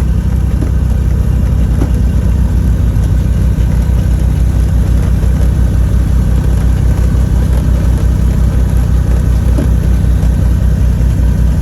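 Twin piston engines and propellers of a Cessna 310 droning steadily in the cabin during an instrument approach, a loud, even, low-pitched hum that holds constant.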